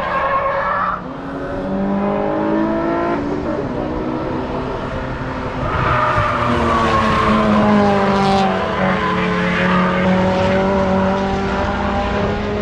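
Cars going by at speed on a racetrack, their engines revving up and stepping through gear changes. Several pass close together about six to nine seconds in, the loudest part, with their engine notes falling as they go by.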